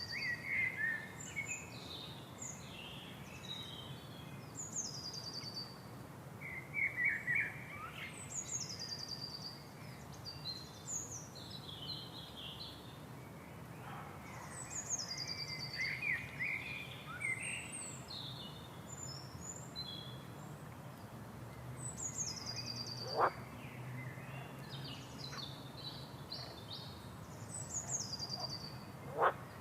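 Several songbirds singing: one repeats a quick, falling, stuttering phrase every few seconds, with other chirps between, over a faint steady low hum.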